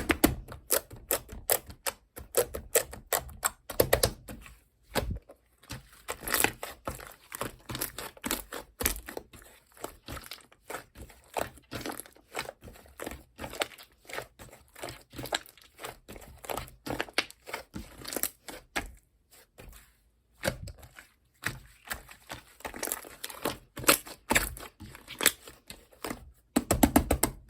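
Slime being squished, stretched and poked by hand: a dense, irregular run of sticky clicks and crackling pops, with a couple of short pauses.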